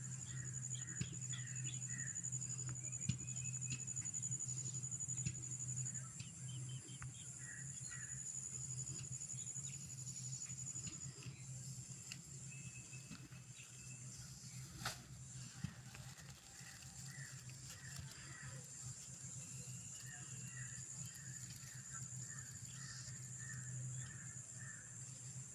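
Birds chirping in clusters of short, repeated notes, over a steady high-pitched whine and a low steady hum.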